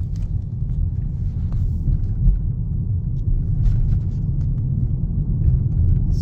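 Steady low rumble of a car's engine and tyre noise heard from inside the cabin while driving along a road, with a few faint clicks.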